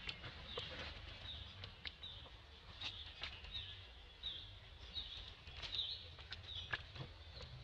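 A bird chirping over and over, short high notes about twice a second, with sharp crackles of dry leaf litter stirred by foraging macaques.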